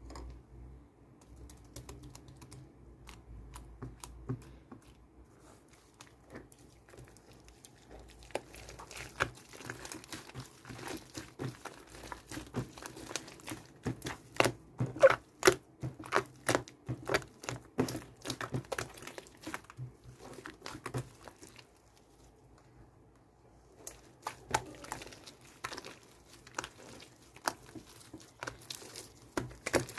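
Slime being squeezed and pressed by hand, giving rapid clicky pops and crackles, loudest through the middle, with a short pause about two-thirds of the way through before the clicking resumes.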